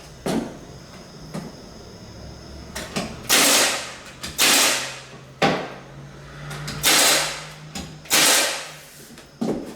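Hardwood floorboards being fastened down with hand and air tools: several sharp knocks and four longer hissing bursts, coming in two pairs.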